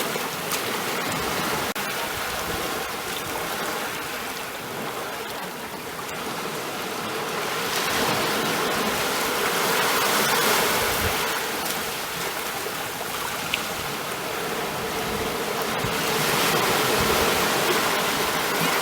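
Ocean waves breaking and washing on the shore in a continuous rush of surf. It swells louder twice, in the middle and near the end, and eases in between.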